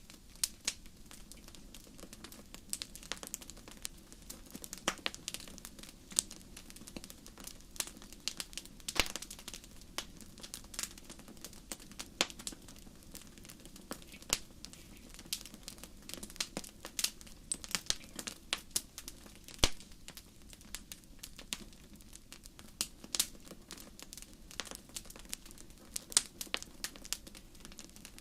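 Wood fire crackling: irregular sharp pops and snaps, a few louder than the rest, over a steady low background.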